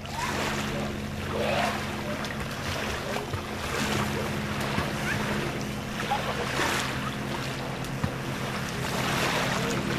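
Lakeside water and wind noise, swelling and easing every second or two, over a steady low motor hum.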